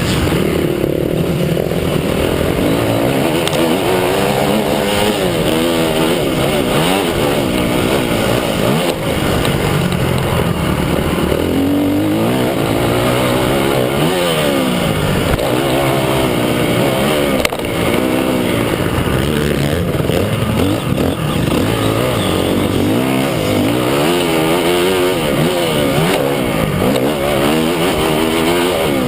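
Several motocross bike engines revving up and down together, their pitches rising and falling and overlapping as they ride the track.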